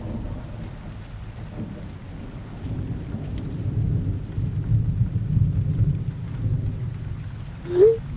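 Rain ambience with a low rolling rumble of thunder that swells and fades. Near the end comes one short, loud rising squeak.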